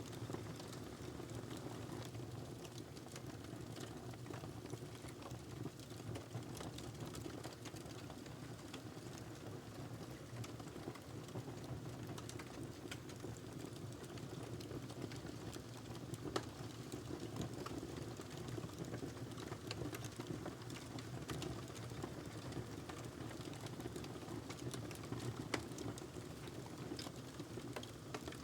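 Wood fire burning in a fireplace: a steady low rumble of flames with irregular sharp crackles and pops from the burning log, a louder pop about 16 seconds in and another near 25 seconds.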